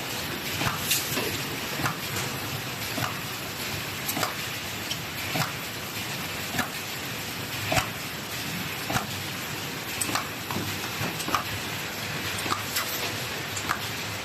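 Drawstring plastic bag making machine running: a steady hiss with a sharp click roughly once a second as it cycles, and lighter ticks in between.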